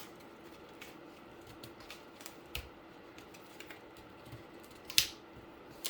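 Cardboard being handled and folded by hand: scattered light clicks and crackles, with one sharp snap about five seconds in.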